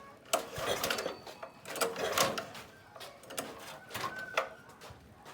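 An irregular clatter of sharp clicks and knocks, typical of hard parts and tools being handled during hand repair work, with a few short chirps over it.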